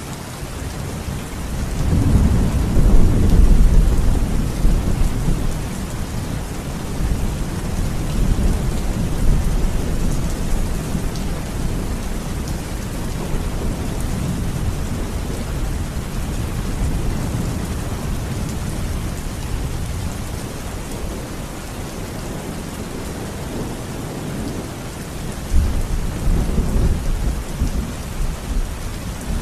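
Steady rain with rolling thunder: a long, deep rumble swells about two seconds in and fades over several seconds, and a second rumble starts more sharply near the end.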